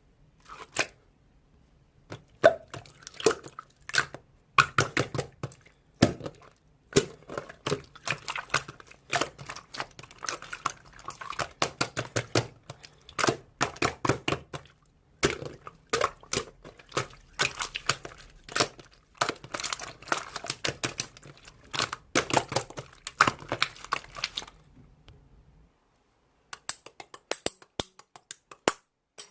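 Slime being squished and stretched by hand: dense runs of crackling clicks and wet pops as air pockets burst. The handling pauses briefly a few seconds before the end, then the clicks resume.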